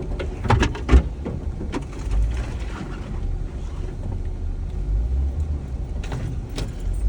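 Jeep driving slowly over a rough, rutted dirt trail: a steady low rumble with sharp knocks and rattles as it goes through divots, the loudest in the first second.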